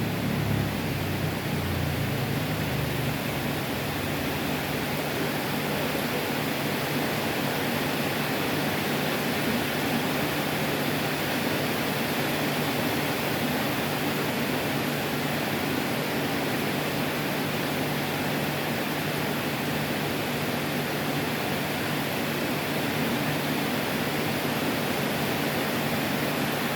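Heavy tropical rain falling steadily, an even rushing hiss with no letup.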